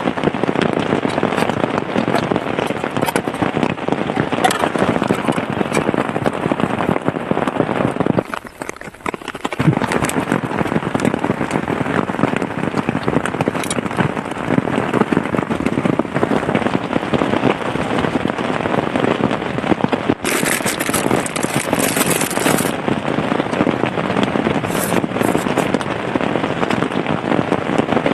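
Heavy rain falling hard, a dense, steady crackle of drops, briefly quieter about eight seconds in.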